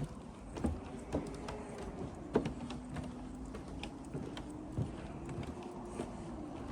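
Footsteps on a wooden boardwalk, irregular knocks every half second to second, with a faint low hum underneath that shifts in pitch a couple of times.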